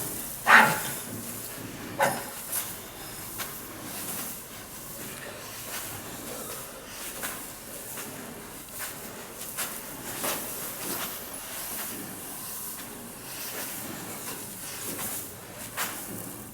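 Scattered knocks and rustles over a steady hiss, the loudest knock about half a second in: handling noise while a grain-heap aeration fan is being fitted.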